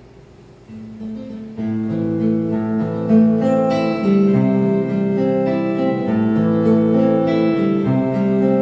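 Acoustic guitar playing the slow instrumental introduction of a Korean folk song. It comes in about a second and a half in.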